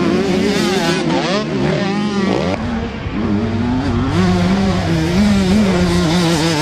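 Several MX2 motocross bikes racing, their engines revving up and down through throttle and gear changes with several pitches overlapping. A brief lull about two and a half seconds in.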